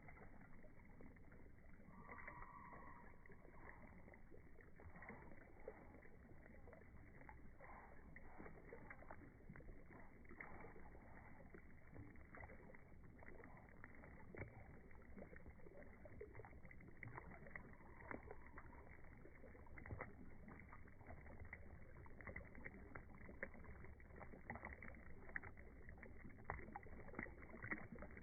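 Beehive-style pollinator fountain, water splashing and dripping faintly in many small, irregular splashes that get a little busier near the end.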